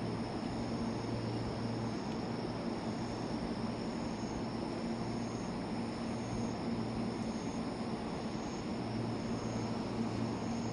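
Steady low hum and hiss of a train standing at the platform with its onboard equipment running, the low drone swelling and easing now and then. Faint high-pitched insect chirping repeats throughout.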